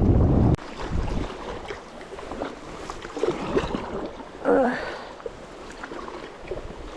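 Wind on the microphone and rushing water from a canoe on the river, cut off abruptly about half a second in. Then quieter water and light knocks, with a short pitched sound about four and a half seconds in.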